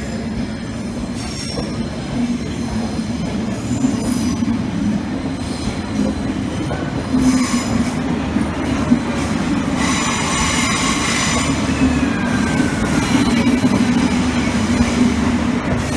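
Diesel train moving slowly on the rails with a steady low engine drone, its wheels squealing now and then, most strongly about two thirds of the way through.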